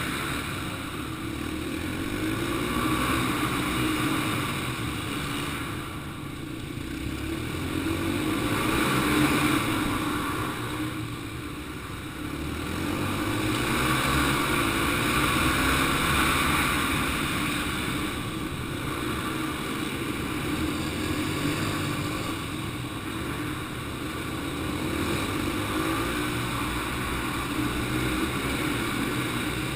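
Small single-cylinder four-stroke dirt bike engines (Yamaha TT-R 125s) running hard. The engine note rises and eases off about every five to six seconds as the riders open and close the throttle through laps of the track.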